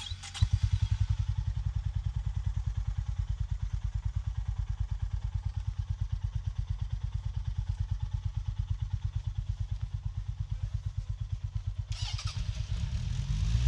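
Honda GB350S single-cylinder four-stroke engine starting about half a second in and idling with an even, slow pulse. Near the end there is a clatter and the revs begin to rise.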